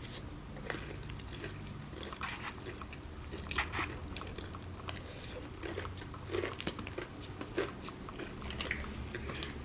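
A person chewing food close to the microphone, with short crisp crunches scattered through, typical of breaded fried chicken cutlet being eaten.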